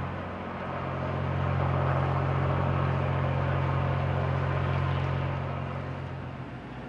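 Idling marine diesel engine: a steady low hum under a rushing noise that swells and then eases off. The hum drops away near the end.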